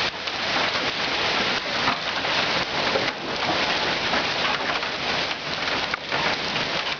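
Hailstorm: hailstones and rain pelting down hard, a dense, steady clatter of countless small impacts.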